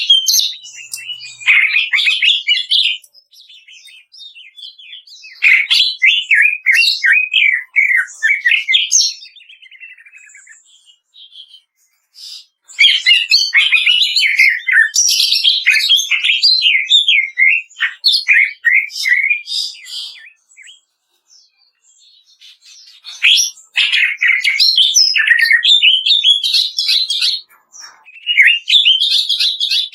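Cucak ijo (greater green leafbird) singing a fast, dense, chattering 'kretekan' song of rapid, varied notes. It comes in several long bursts with brief quieter gaps between them.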